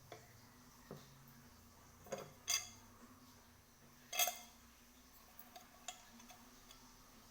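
Small metal cauldron clanking as it is handled: two louder ringing clinks, about two and a half and four seconds in, among a few lighter knocks.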